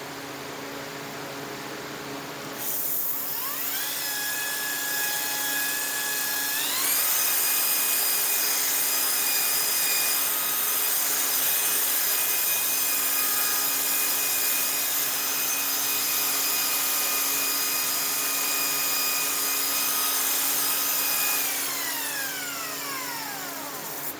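Makita GA7021 angle grinder fitted with a buffing wheel, starting up about three seconds in and rising in pitch in two steps, running at steady speed, then winding down with falling pitch near the end.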